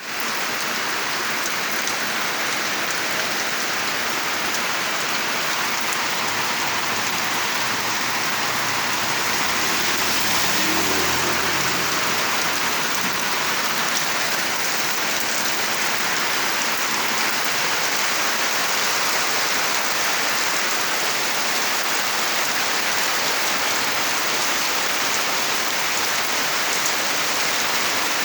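Heavy rain pouring steadily, a dense even hiss of rain hitting the ground. A faint low rumble comes in briefly about ten seconds in.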